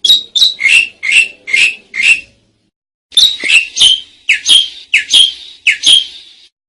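Asian pied starling (jalak suren) calling loudly: a run of about six short, harsh notes, each sweeping down in pitch, then after a pause of about a second another run of seven or so.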